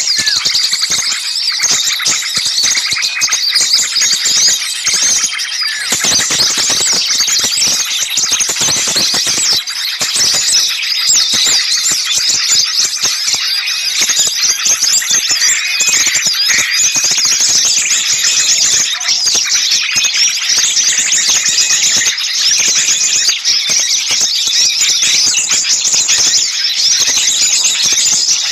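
Bird-lure recording of many small songbirds chattering and calling at once, a loud, unbroken mass of overlapping high-pitched chirps.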